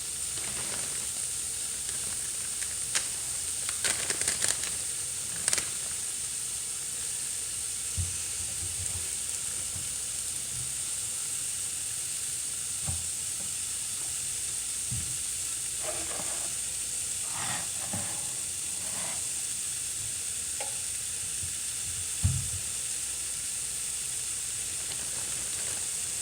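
Butter sizzling steadily in a hot pan, with a few clatters of kitchenware about four seconds in and again past the middle, and one louder knock a few seconds before the end.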